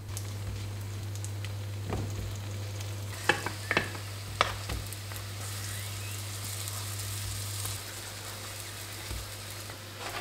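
Small rice cake pancakes sizzling in hot oil in a pan, a steady frying hiss. A few sharp clacks of a wooden spatula against the pan come three to five seconds in. A steady low hum under the sizzle stops about eight seconds in.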